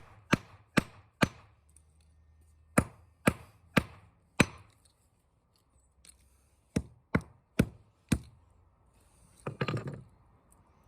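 Repeated sharp impacts breaking a small electronic part taken from a portable speaker: three blows, then four, then four more, each about half a second apart, followed near the end by a short rattling clatter.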